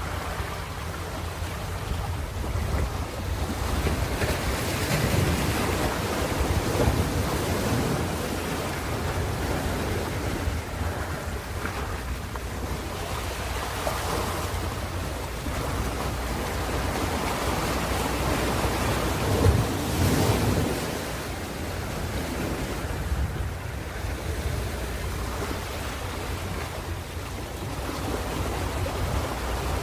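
Ocean surf: waves breaking and washing on a shore, a rushing hiss that swells and falls back every several seconds over a steady low rumble.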